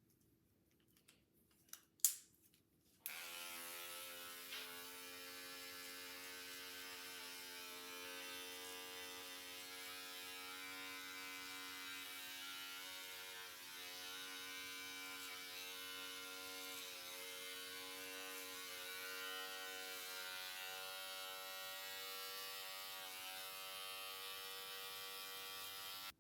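Electric hair clippers buzzing steadily at a constant pitch, switched on about three seconds in after a couple of sharp clicks and cut off abruptly near the end.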